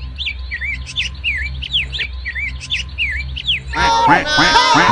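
Birds chirping in a quick run of short, rising-and-falling chirps over a steady low hum. Near the end a louder sound with several gliding pitches cuts in.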